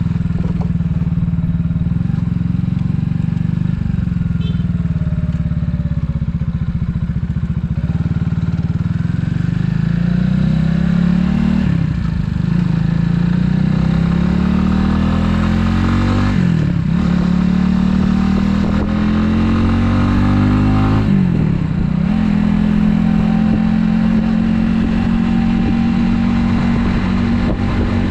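Italika 250Z motorcycle engine accelerating up through the gears: the pitch climbs, drops sharply at each of three shifts about 12, 17 and 21 seconds in, then holds steady at a cruising speed.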